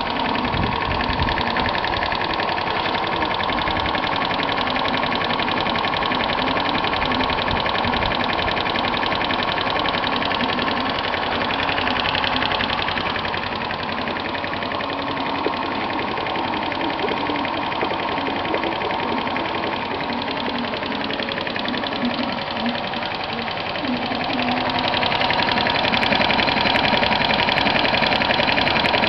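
125 cc moped engine running steadily on air enriched with HHO (oxyhydrogen) gas. Near the end it picks up and runs louder.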